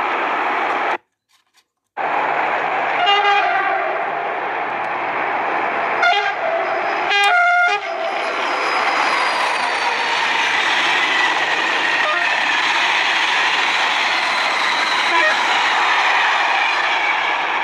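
A passing train sounds its horn three times, about three, six and seven seconds in; the last blast is the longest and loudest. Steady rumble and rail noise from the train fill the rest. The sound drops out for about a second near the start.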